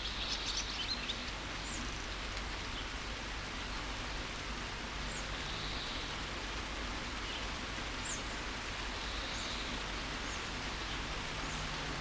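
Steady rain falling, with birds chirping: a quick run of chirps in the first second, then a few single short chirps.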